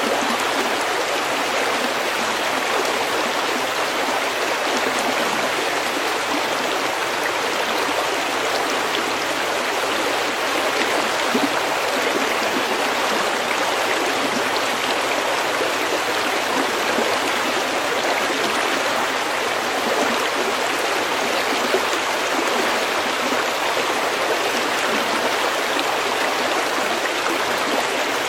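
A stream running over pebbles: a steady, continuous rush of flowing water.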